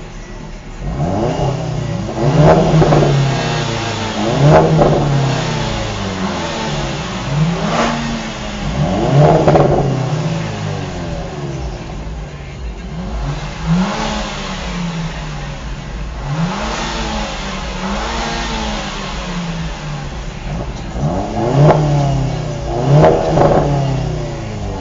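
Performance car's turbocharged 2.0-litre four-cylinder engine and sport exhaust, heard on board, revving hard many times over: the pitch climbs and drops again and again as it accelerates and lifts off. The loudest pulls come about two and a half seconds in, at about four and a half, at about nine and a half, and twice near the end.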